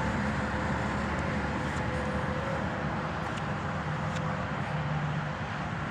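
Steady road traffic noise, with a low engine hum that swells a little about four seconds in.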